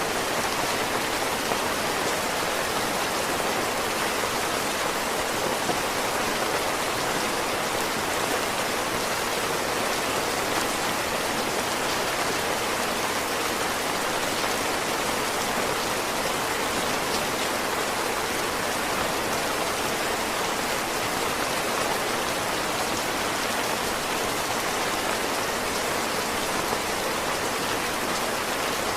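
Heavy rain falling steadily, an even, unbroken hiss of many drops on surfaces with no rise or fall.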